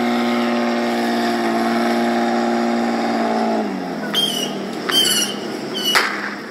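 Car engine held at steady high revs while spinning its tyres, then dropping off about three and a half seconds in. It is followed by a few short high-pitched squeals and a sharp crack near the end.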